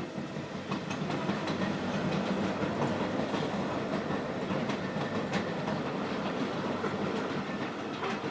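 Narrow-gauge railway wagons rolling past on the track: a steady rolling noise with many clicks and clatters as the wheels pass over the rail joints.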